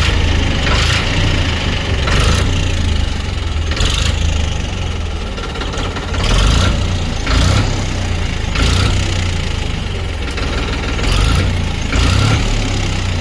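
Ford 3600 tractor engine running at idle, with short louder swells every second or so.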